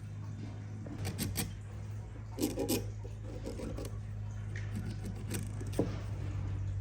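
Scattered light knocks, clicks and rubbing over a steady low hum.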